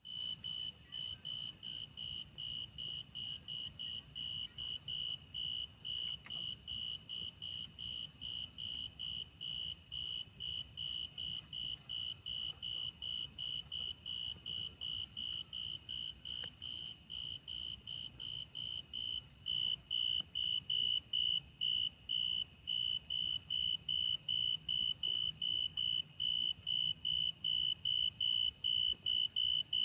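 Insects chirping in a steady, even rhythm, about three clear high chirps a second, over a continuous high-pitched whine from other insects. The chirping grows louder about two-thirds of the way through.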